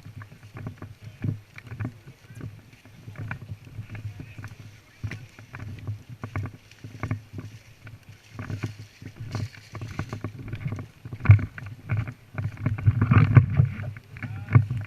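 Irregular thumps and rustling of movement close to the microphone, growing denser and louder near the end.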